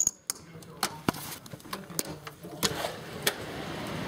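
Storm wind rising into a steady rush in the last part, with scattered sharp clicks and knocks before it.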